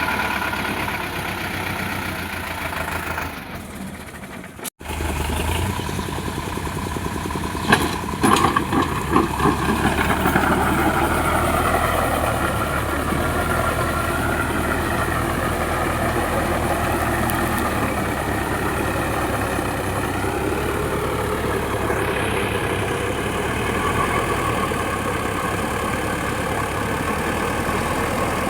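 Sonalika DI 750 tractor's diesel engine running steadily. The sound drops out abruptly just before 5 s, then comes back with a few louder clattering knocks around 8 to 10 s.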